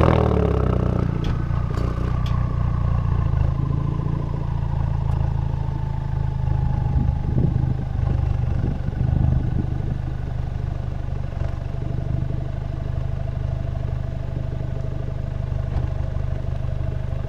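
Ford Focus RS 2.3-litre turbocharged four-cylinder idling through a muffler-delete exhaust (straight pipe in place of the muffler) right after starting. It is loudest in the first moment, then settles into a steady, deep idle with a whine that slowly falls in pitch.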